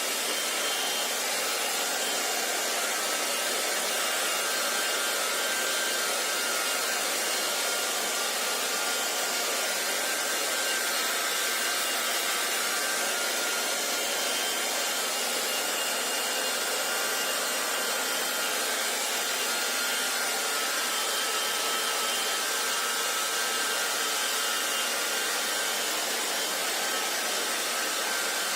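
Electric hair dryer running steadily, an even blowing whoosh with a faint motor whine and no change in speed.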